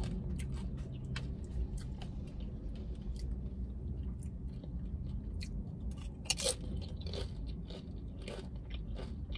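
A person biting and chewing a tortilla chip loaded with burrito-bowl food, close to the microphone: a run of crisp crunches throughout, the loudest a little past six seconds in.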